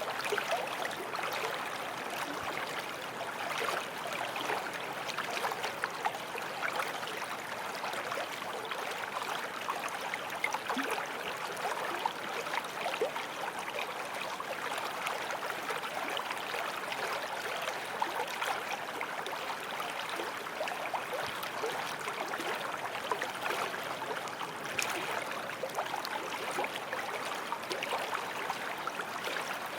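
A small forest stream flowing over stones, a steady babble of water with many little splashes and gurgles.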